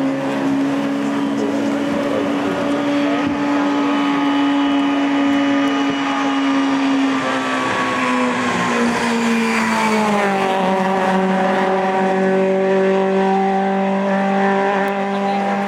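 A Peugeot 205's 1.6-litre four-cylinder race engine running hard at high revs. Around the middle its pitch falls smoothly over a few seconds, then holds steady at a lower note.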